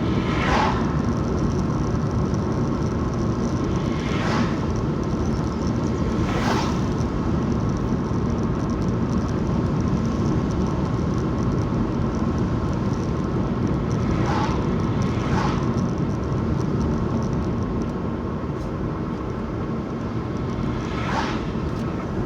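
Steady road and engine rumble inside a moving car, with a few brief sharper sounds standing out now and then.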